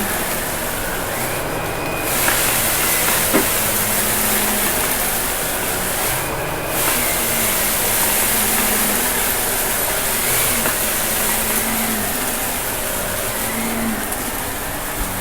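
Shark vacuum cleaner running with a steady rushing hiss of motor and airflow; the hiss briefly drops twice, about one and a half seconds and six seconds in.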